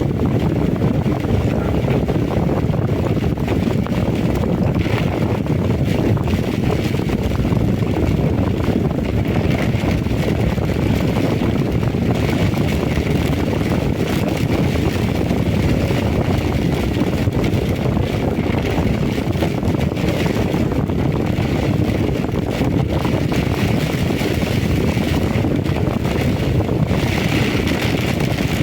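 Strong wind buffeting the microphone in a heavy rainstorm: a steady, loud low rush with no break.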